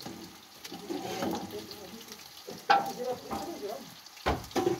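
Sliced carrots frying in a metal pot over a charcoal stove, a low sizzle. A few sharp clicks and knocks cut through it: the loudest about halfway through, and two more close together near the end.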